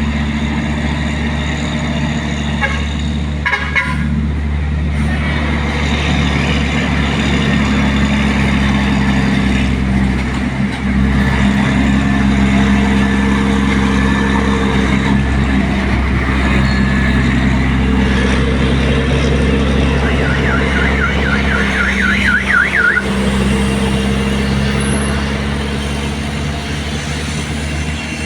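Mitsubishi Fuso tronton truck's diesel engine running steadily. About three-quarters of the way through, a fast warbling high tone sounds over it for about three seconds.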